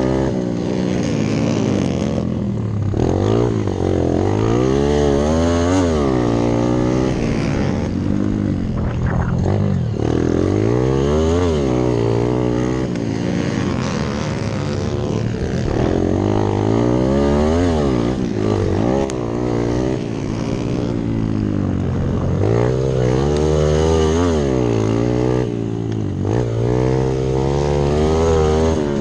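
Single-cylinder four-stroke dirt bike engine (a rally-built Hero Impulse) ridden hard off-road, its pitch repeatedly climbing under throttle, then dropping on gear changes and when backing off.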